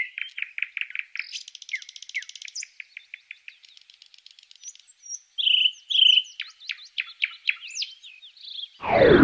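Songbirds singing, a run of varied chirps, rapid trills and whistled notes. Near the end a loud whooshing sweep starts and falls steeply in pitch to a deep rumble.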